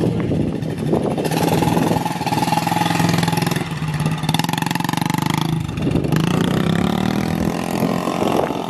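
Small motorcycle engine running under throttle while being ridden, easing off briefly twice and picking back up.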